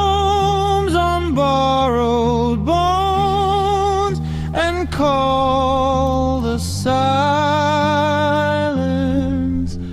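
A song: a single voice sings long held notes with a wavering vibrato over steady, sustained low accompaniment.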